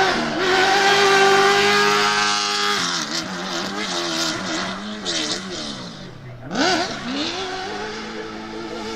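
Ford Raptor T1+ Dakar truck's 5.0 V8 engine held at high revs, then its pitch wavers and falls. About two-thirds through the revs sweep sharply up and back down, then settle into a steady note.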